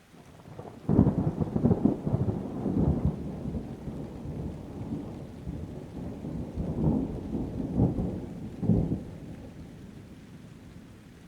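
Thunder: a sudden peal about a second in that rolls on in low rumbles with several louder surges, dying away near the end.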